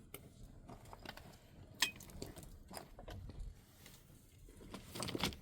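Scattered light clicks and knocks, the sharpest a little under two seconds in and a cluster near the end.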